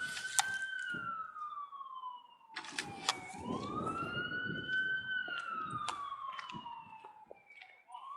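Emergency vehicle siren on a wail: the pitch rises and then falls slowly, about twice, with a few sharp clicks over it.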